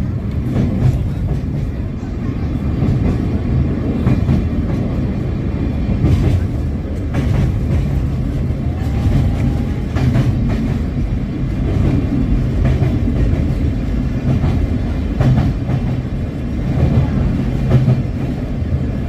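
Sagano sightseeing train running through a tunnel, heard from on board: a steady loud rumble of wheels on the rails, with occasional sharp clacks from the track.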